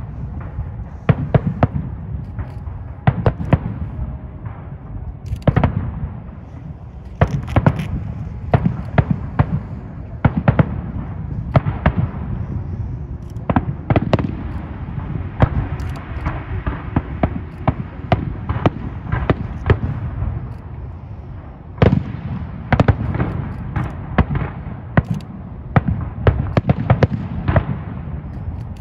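A fireworks display: aerial shells burst one after another, with sharp bangs often less than a second apart over a continuous low rumble of distant explosions.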